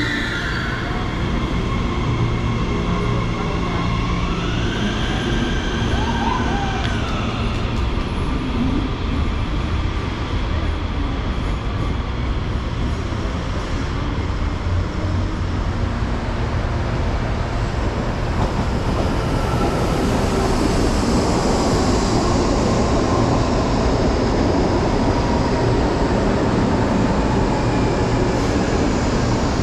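Electric commuter trains at a station platform: a steady low rumble with whining motor tones. The whine rises in pitch about four seconds in. From about eighteen seconds in a louder rushing train noise builds, with a whine that slowly falls in pitch.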